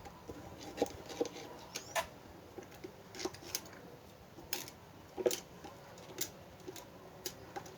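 Irregular light clicks and taps from the plastic parts of an electric fan being handled during cleaning, about a dozen scattered sharp ticks with no rhythm.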